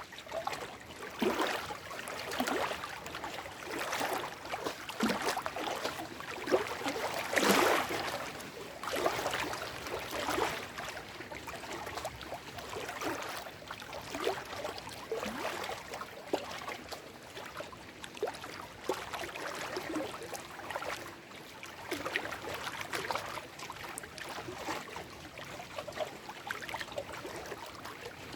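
Small lake waves lapping and splashing over shoreline rocks, in irregular surges every second or two, one larger splash about seven seconds in.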